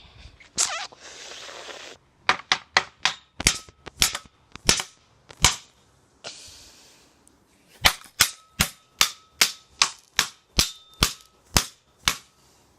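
A hoover pole beating a cardboard box: two runs of sharp whacks, two to three a second, with a short pause between them. A faint ringing tone follows some of the blows.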